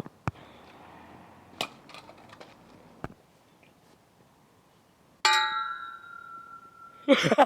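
A few sharp clicks, then a single bright metallic ding that rings out and fades over about a second and a half. A voice starts just before the end.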